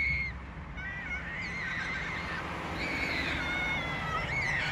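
Animal calls: several high, wavering calls overlapping one another, over a low steady rumble.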